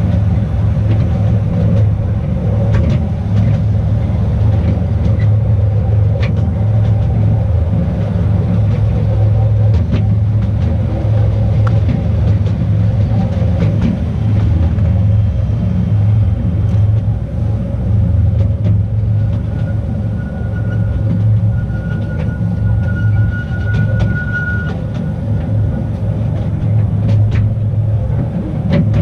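Narrow-gauge tourist train running on its track, heard from aboard: a steady low rumble with scattered clicks from the wheels on the rails. A faint thin squeal rises over it for several seconds past the middle.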